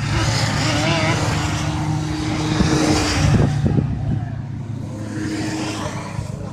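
Motocross motorcycle engines running hard at high revs, loudest over the first three seconds or so, easing off about four seconds in and rising again shortly after.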